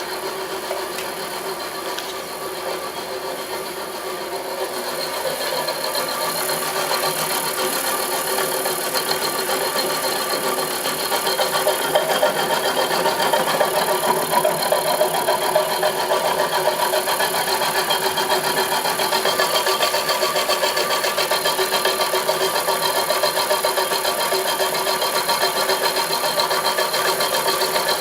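Homemade milling machine running steadily, its motor giving off a whine made of several constant tones over a grinding noise. It gets louder about five seconds in and again about twelve seconds in.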